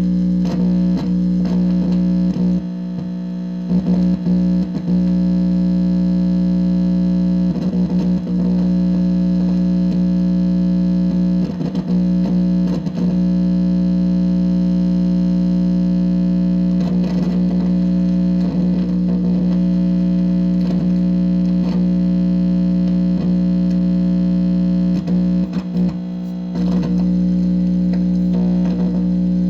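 Steady, loud electronic hum and buzz played through a distorted amplifier, with a low droning tone and its overtones. Short warbling, wavering tones break in every few seconds, and the drone briefly drops away twice.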